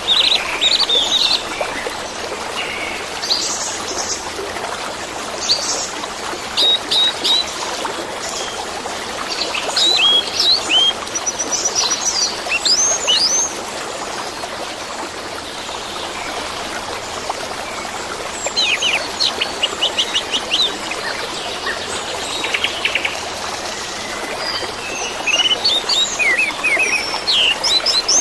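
Orange-headed thrush singing in bursts of varied whistles and rapid chattering notes, pausing for a few seconds in the middle, over a steady sound of trickling water.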